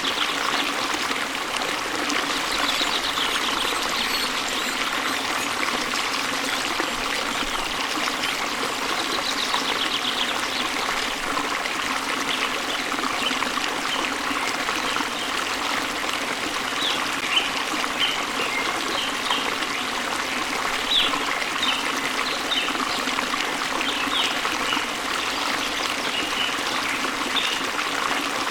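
Waterfall pouring into a stream: a steady, even rush of water. Small birds chirp over it, with two short rapid trills in the first ten seconds and scattered brief chirps through the second half.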